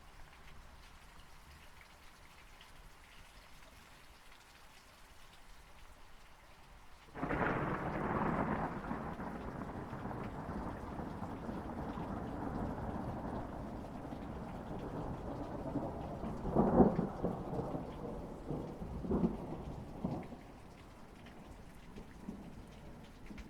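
Steady rain, then a thunderclap about a third of the way in that rolls on as a long rumble. The rumble carries sharper cracks near the middle and fades back to the rain after about thirteen seconds.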